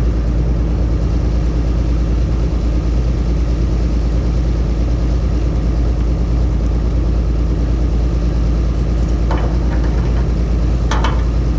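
Diesel engine of heavy logging equipment idling steadily after a cold start, a deep, even running note with no change in speed. A couple of brief knocks come near the end.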